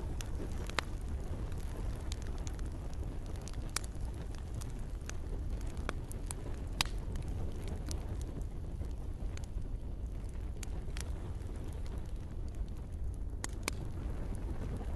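Campfire burning, with scattered sharp crackles and pops over a steady low rumble of the flames.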